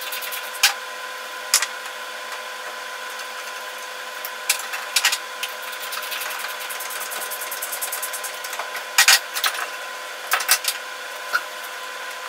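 Scattered clicks and knocks of hand tools and metal parts while a brake master cylinder is bench bled, over a steady hum.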